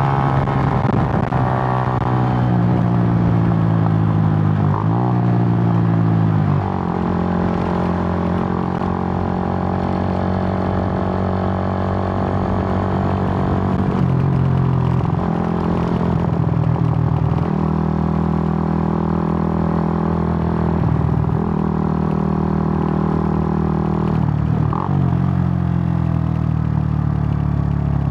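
Suzuki GN125's air-cooled single-cylinder four-stroke engine under way, its pitch climbing as it pulls through each gear and dropping sharply at each gear change, about ten changes in all.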